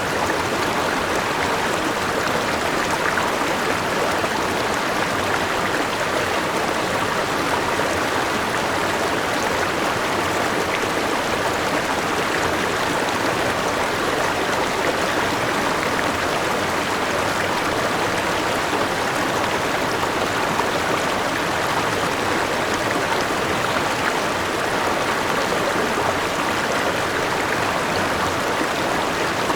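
Forest river with a small waterfall, water rushing and splashing in a steady, even flow.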